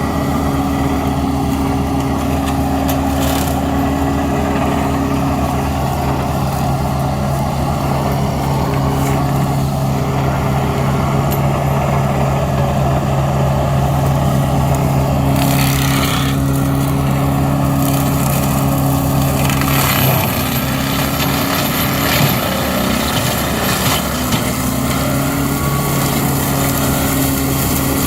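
Carraro 100 HP tractor's diesel engine running steadily at working revs, driving a flail mulcher. The engine note dips briefly about two-thirds of the way through, then settles back.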